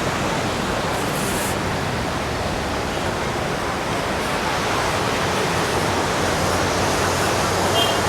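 Steady, even rush of ocean surf breaking on a beach.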